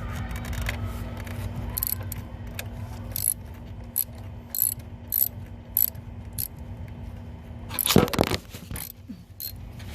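Hand ratchet wrench clicking in short, irregular strokes as bolts are loosened during a spark-plug tune-up, with a louder metallic clatter about eight seconds in.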